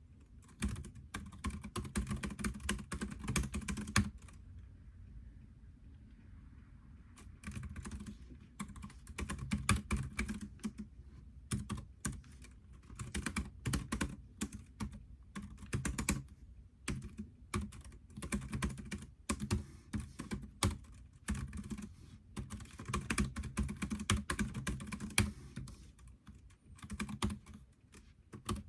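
Typing on a computer keyboard: quick runs of keystrokes with short gaps, and a pause of about three seconds a few seconds in.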